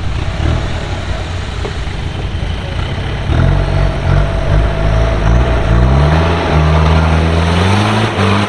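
4x4 off-road vehicle's engine running under load with a low rumble, then louder about three seconds in as it is revved, its pitch rising in repeated steps and settling.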